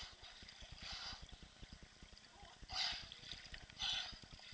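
Faint splashing water in three short bursts, the loudest two near three and four seconds in, over a low buffeting rumble on the microphone.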